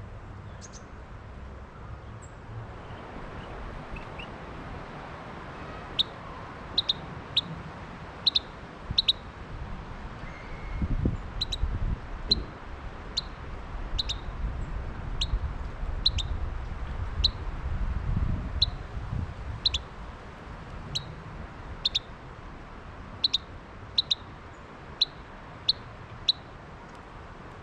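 A songbird giving sharp, short chip calls, about one a second and sometimes in quick pairs, starting about six seconds in. Wind rumbles on the microphone in the middle of the stretch.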